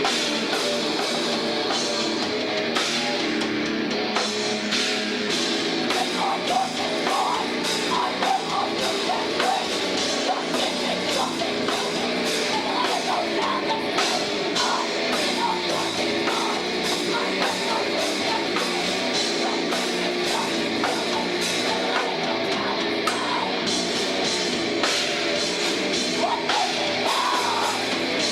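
Live rock band playing loud and steady: distorted electric guitars, bass and a drum kit, with a voice singing over them.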